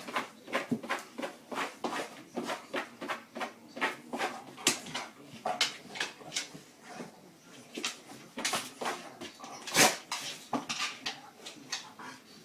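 A dog making small sounds amid an irregular run of short clicks and knocks, the loudest nearly ten seconds in.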